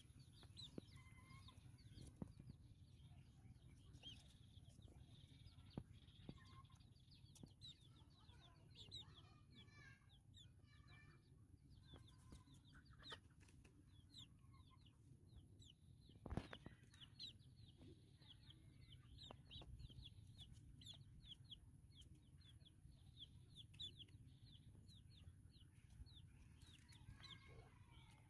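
Faint, rapid, high-pitched peeping of baby white-breasted waterhen (dahuk) chicks, many short cheeps in a steady stream, over a low hum. A single sharp knock sounds about 16 seconds in.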